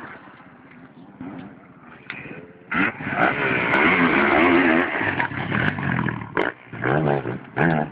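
Motocross bike engine, faint for the first couple of seconds, then loud from about three seconds in as the rider revs hard down the straight, the pitch rising and falling with each gear and throttle change.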